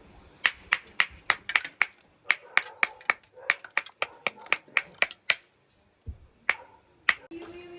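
A quick run of sharp clicks or taps, about four a second for some five seconds, then two more single taps near the end.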